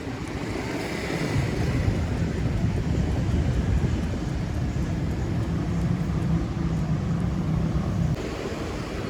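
Low, steady rumble of a vehicle, swelling about a second in and cutting off abruptly near the end.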